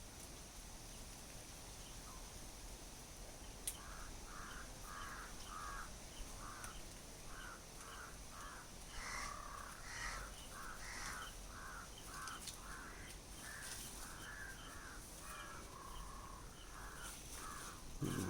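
Crows cawing over and over, a long run of short harsh calls at about two a second, starting a few seconds in.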